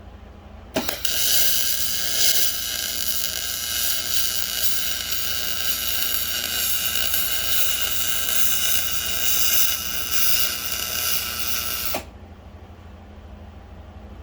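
Small motor-driven mechanism running with a steady high whine and gear noise, starting abruptly about a second in and cutting off sharply after about eleven seconds.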